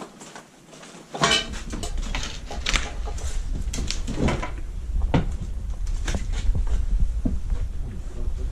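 Creaks, knocks and crunches of footsteps picking across a shaky, fire-damaged floor, with a steady low rumble on the microphone from about a second in.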